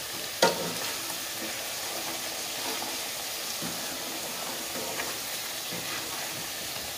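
Sweet potato chunks sizzling steadily as they fry in oil and sugar in a wok, stirred with a wooden spatula that scrapes and knocks against the pan. One sharp knock about half a second in, with a few softer ones later.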